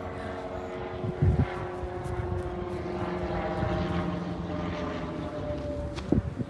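Aircraft flying by: a steady engine drone with several pitched tones that slide slightly lower near the end. Two short low thumps come about a second in and near the end.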